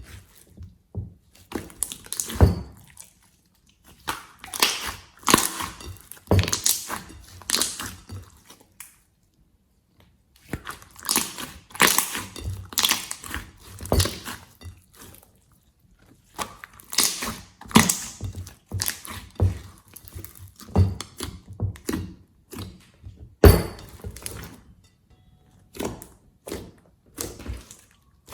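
Slime being squeezed and worked by hand, giving bursts of crackling, popping and crunching clicks with short pauses between handfuls.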